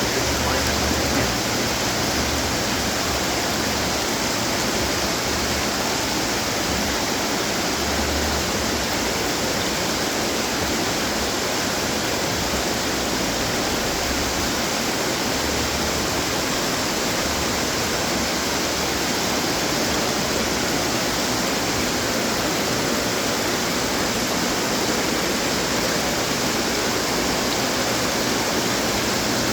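Water from a running garden fountain splashing and falling, a steady, loud rush that does not change.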